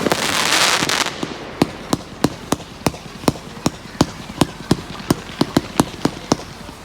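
Firework display: a dense crackle for about the first second, then a string of separate sharp bangs, two or three a second, that dies away near the end.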